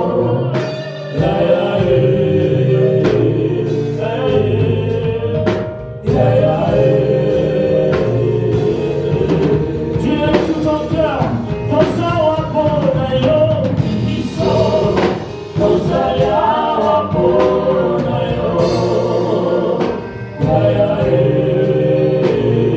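Gospel choir and worship team singing a praise song over a steady beat and bass line.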